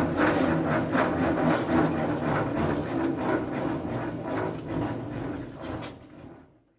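Rice harvesting machine running, a steady engine hum under a rhythmic mechanical clatter, fading out near the end.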